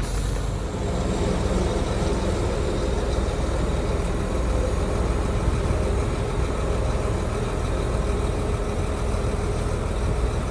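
Heavy diesel engine of earthmoving machinery running steadily, a little louder from about a second in.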